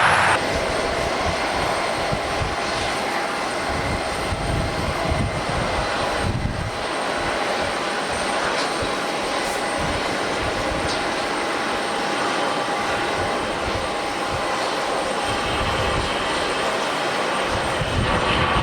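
Aircraft turbine engines running with a steady whine, over an irregular low rumble of gusty wind on the microphone.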